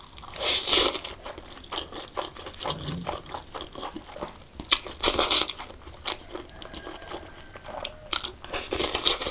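A person eating spicy instant noodles close to the microphone: chewing and biting mouth sounds, with three louder bursts about a second in, around five seconds in and near the end.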